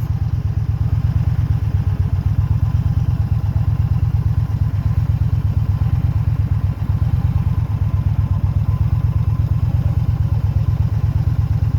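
Motorcycle engine idling steadily, a low, even pulsing.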